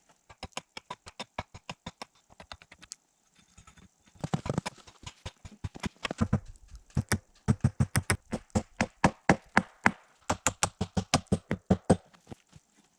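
Hand saw cutting wood in quick, even strokes, about four or five a second. It pauses briefly about three seconds in, then resumes louder.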